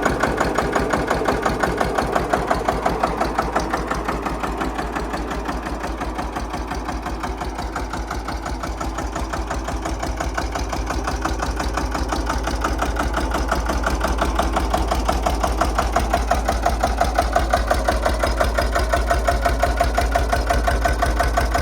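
Vintage tractor engine running steadily with a fast, even beat. It gets a little quieter around eight seconds in, then louder again.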